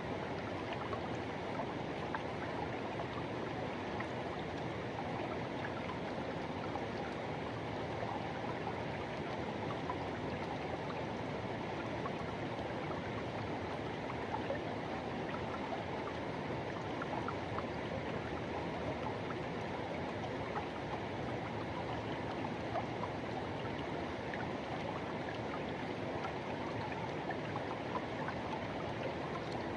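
Forest river water rushing and flowing steadily over rocks, a continuous even rush with small splashes and gurgles through it.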